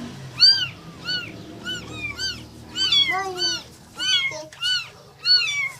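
Newborn kittens mewing: a quick string of short, high-pitched mews, several kittens calling at different pitches and sometimes overlapping.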